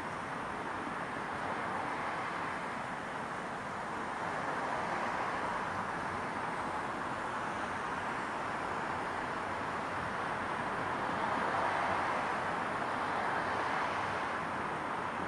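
Steady evening ambience of a residential neighbourhood: an even wash of noise, with no distinct events, that swells gently twice.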